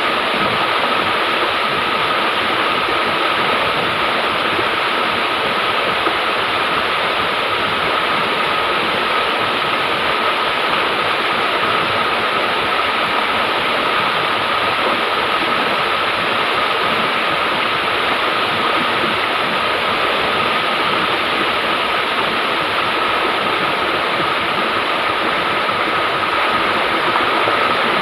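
River water flowing steadily, an even, unbroken rush of water noise with a thin steady tone running through it.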